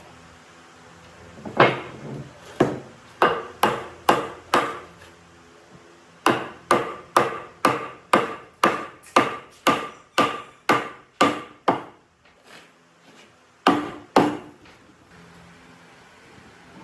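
Hammer blows in a workshop: a handful of strikes, then a steady run of about two a second for some six seconds, then two more near the end. Each blow carries a slight ring.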